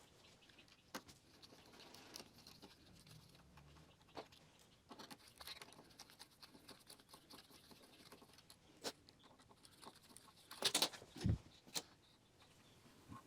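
Faint scattered clicks, taps and light scraping from hands working on the bike's handlebars. About ten and a half seconds in comes a burst of louder clicks and a dull knock.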